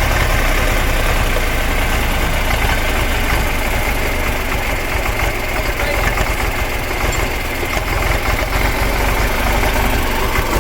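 Sonalika tractor's diesel engine running steadily, with a dense low rumble throughout.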